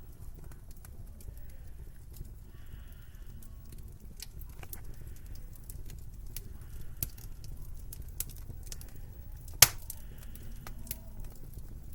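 Wood fire in a fireplace crackling, with scattered sharp clicks over a steady low rumble and one loud pop about ten seconds in.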